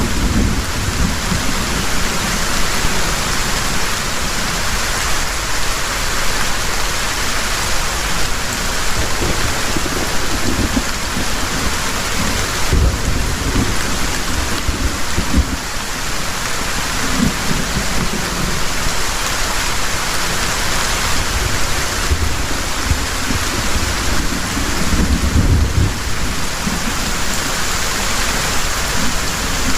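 Heavy rain falling steadily, with low rumbles of distant thunder swelling and fading several times.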